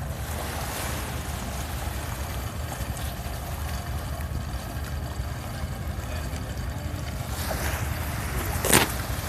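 Small boat's engine running steadily under a wash of water and wind noise, with one sudden loud slap near the end.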